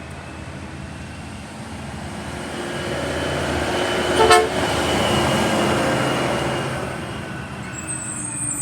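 Republic Services garbage truck driving past, its engine getting louder as it approaches and then fading as it moves away. A single short horn toot sounds about four seconds in.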